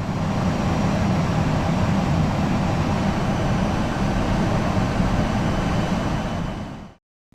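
Aircraft in cruise: a steady, even rumbling rush of engine and airflow noise, heaviest in the low range, which stops shortly before the end.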